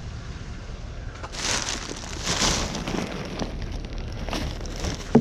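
Rummaging through a pile of discarded junk: irregular rustling and crackling as items are handled, with scattered clicks and one sharp knock near the end.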